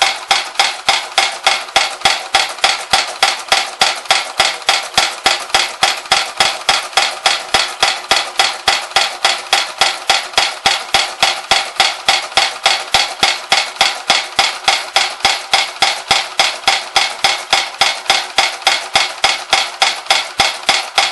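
Bing toy trip-hammer accessory, driven by a Bing overtype toy steam engine, clacking steadily metal on metal at about three strikes a second.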